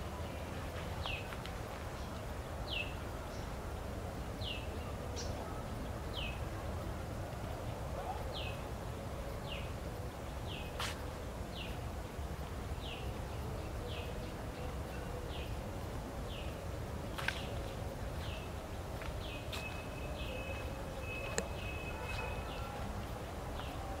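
A bird repeating a short, high, falling note about once a second, over a steady low rumble; a held whistled note joins near the end, and there are two sharp clicks in the second half.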